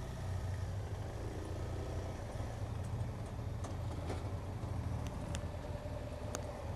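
Steady low drone of a motorcycle riding along a town road, engine and road noise, with a faint steady whine and a few light clicks.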